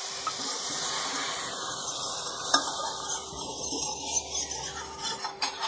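Spice paste of crushed ginger, green chilli and red chilli powder sizzling in oil in a kadhai, with a little water just added to stop the spices burning. A metal ladle stirs and clinks against the pan a few times, around the middle and near the end.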